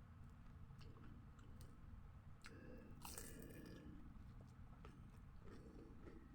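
Close mouth sounds of eating: small clicks of chewing, with a louder crunchy bite into crisp food about two and a half seconds in, lasting about a second.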